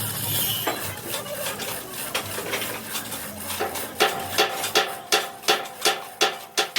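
Hammer blows on steel plate: scattered metal clinks and scrapes, then from about four seconds in a regular run of ringing strikes, about three a second.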